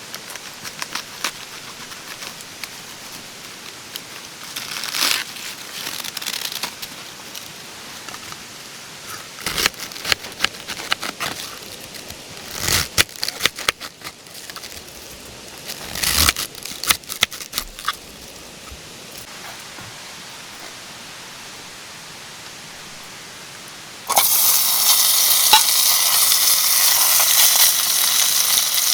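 Scattered clicks and knocks of cookware being handled over a steady background hiss. Near the end, food goes into a hot pan and starts sizzling loudly.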